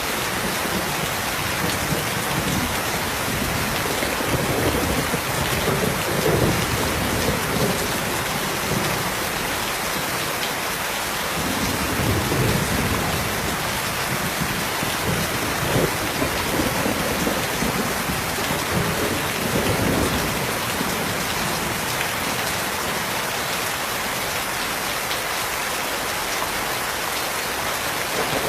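Steady, heavy rain, with low thunder rumbling and swelling several times.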